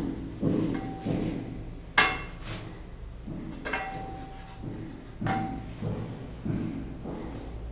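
Irregular sharp knocks and taps, about six, the loudest about two seconds in, some leaving a brief ringing tone, over a steady low hum.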